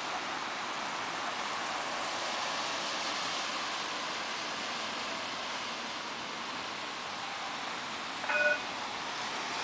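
Steady hiss of falling rain. About eight seconds in, a brief pitched sound with a few clear tones rises above it for a moment.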